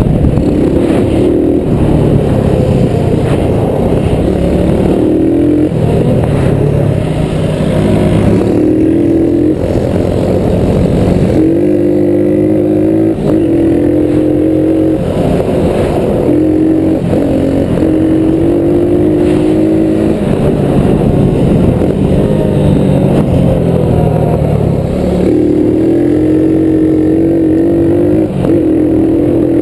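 Small four-stroke single-cylinder off-road engine running and revving up and down again and again, its pitch rising and falling.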